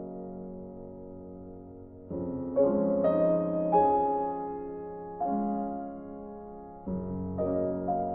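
Slow, gentle piano music: soft chords struck one after another, each left to ring and fade before the next.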